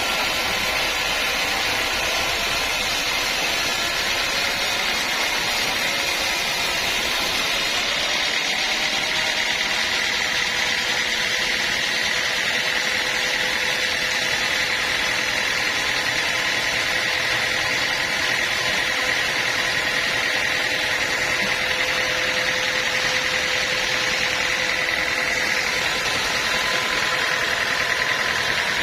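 Sawmill machinery running steadily: a continuous machine noise with a steady high whine.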